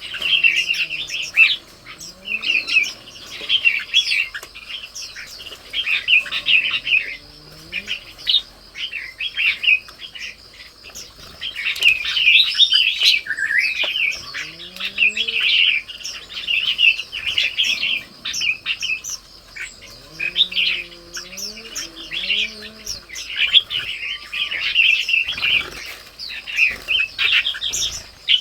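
Songbirds chirping continuously, many quick overlapping calls, over a steady high hum. A few low, wavering calls come through now and then.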